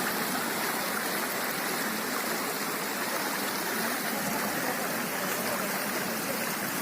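Water rushing steadily, a constant even hiss with no breaks.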